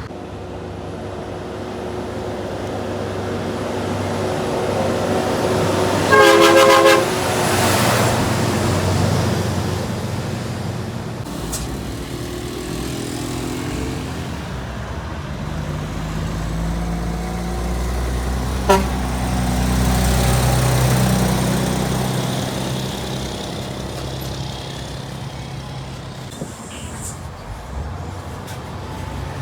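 Heavy trucks passing on a highway, their engines rumbling and swelling as one goes by in the second half. A horn sounds once, loud and about a second long, about six seconds in.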